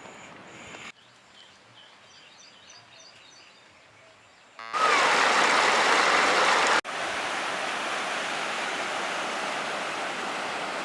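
Rushing water of a large waterfall, heard as a steady, even wash of noise in several edited cuts. After a quiet stretch with a few faint high chirps, the water comes in loud almost halfway through, then drops a little at a sudden cut and runs on steadily.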